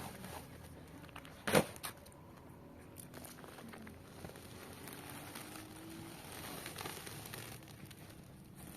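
Wood fire crackling quietly, with one sharp snap about a second and a half in and a smaller one just after.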